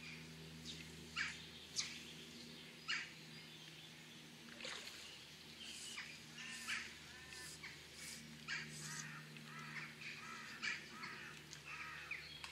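Wild birds calling and singing: short, sharp chirps scattered throughout, and a run of repeated warbled notes in the second half, all faint.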